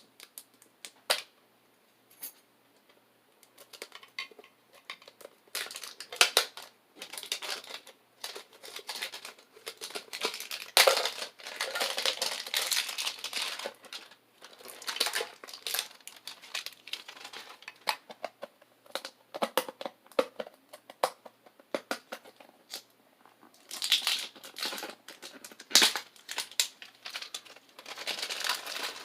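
Pokémon card packaging being worked open by hand: crinkling, tearing and clicking in irregular bursts, loudest about ten to fourteen seconds in and again around twenty-four seconds in. It is hard to open.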